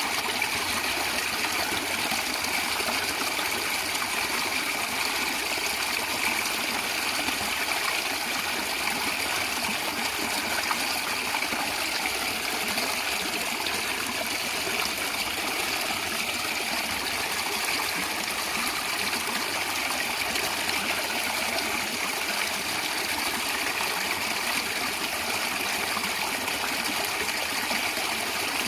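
Natural stream water flowing and gurgling in a steady, unbroken rush.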